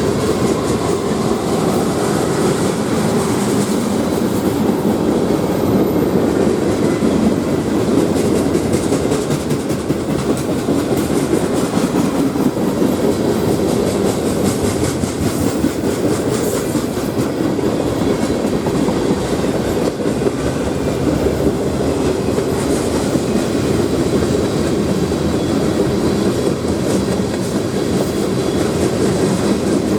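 CSX freight train rolling past: a steady, loud rumble of steel wheels on the rail, with faint clicking over the rail joints.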